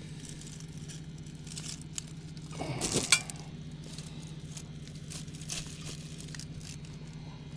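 Crackling and rustling of weeds and brush being pulled and handled, with a louder burst about three seconds in that ends in a sharp click, over a steady low hum.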